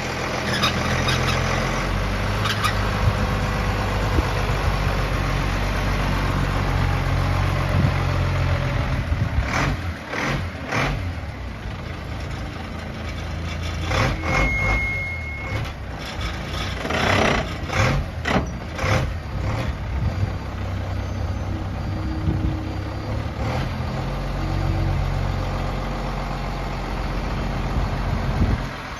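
Dump truck's diesel engine running steadily, with a stretch of short noisy bursts in the middle and one short beep about halfway through.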